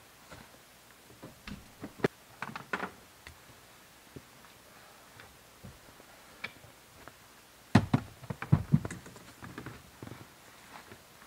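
Knocks, thuds and clatter of backpacks and gear being handled and loaded into the open rear cargo area of an SUV, with a burst of louder knocks about eight seconds in.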